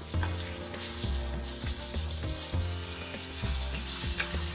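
Onion-garlic masala with dried mango slices sizzling and frying in a kadhai on high heat while a spatula stirs it, with a few sharp clicks of the spatula on the pan. Background music with a steady beat plays underneath.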